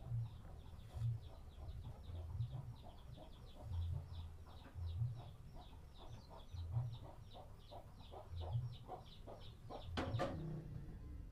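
A bird calling in a fast run of short, falling chirps, about three a second, getting stronger as it goes, over dull low thumps; a sharp knock with a brief ring about ten seconds in.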